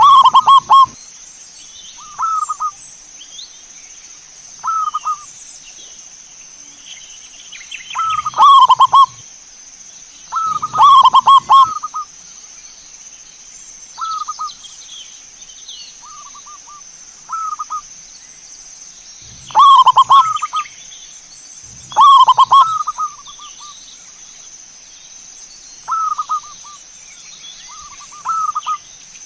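Zebra doves (perkutut) cooing: loud rolling coo phrases about a second long every few seconds, with shorter, softer coos between them. A faint steady high-pitched tone runs beneath.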